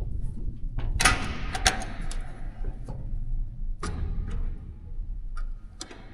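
Heavy machinery running with a low, steady rumble, with sharp knocks about a second in, shortly after, near the middle and near the end.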